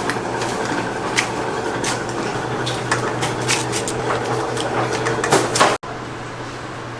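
Steady machine hum with scattered sharp clicks and clatter of work. It cuts off abruptly near the end to a quieter steady background.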